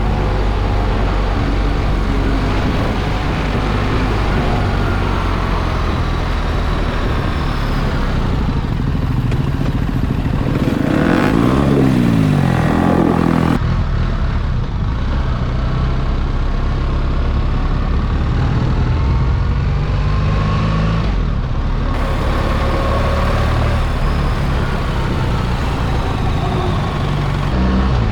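BMW R 1300 GS boxer-twin motorcycle running on the road, its engine note mixed with wind and road noise. A vehicle sweeps past about eleven seconds in, and the sound changes abruptly a few times.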